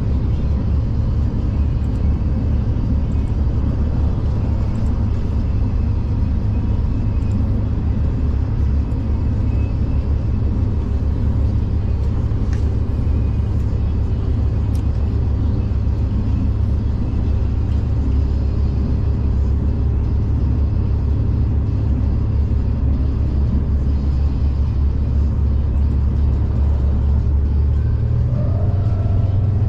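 V/Line passenger train running along the line: a steady low rumble. Near the end the note of the drive shifts and a faint rising tone joins in.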